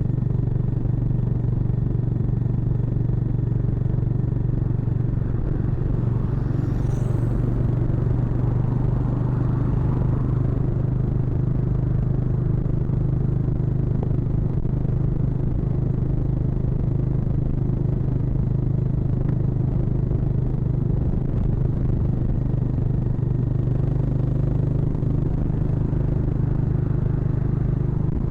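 Harley-Davidson X440's 440 cc single-cylinder engine running at a steady cruising speed, its pitch holding nearly constant.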